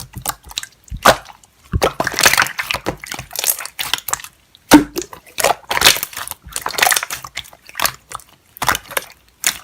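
Pink slime being squeezed, pressed and stretched by hand: irregular squishing and crackling bursts with short pauses between them.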